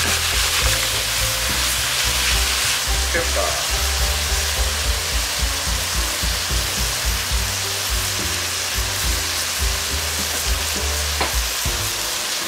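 Pork and vegetables sizzling steadily as they stir-fry in a hot black frying pan, turned with chopsticks.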